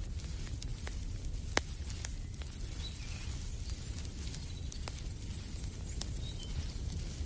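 Wood fire crackling in a fireplace: irregular sharp pops and snaps, the loudest about a second and a half in, over a steady low rumble. A few faint bird chirps come through now and then.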